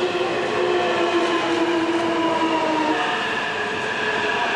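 JR E657 series electric limited express running past the platform at speed: a steady rush of wheels and cars with a whine of several steady tones that drift slowly lower, a higher tone joining about three seconds in.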